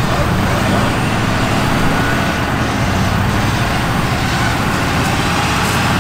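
Pickup truck engine running steadily at low revs.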